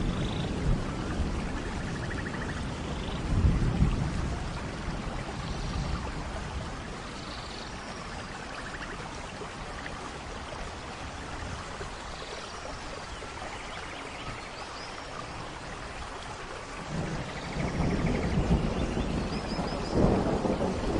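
Steady rain falling, with low rolling thunder swelling about three seconds in and again over the last few seconds.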